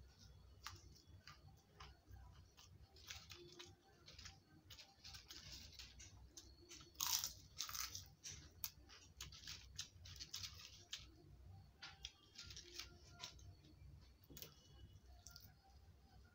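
A person chewing food close to the microphone, with short crunchy bites and mouth sounds; the loudest crunch comes about seven seconds in.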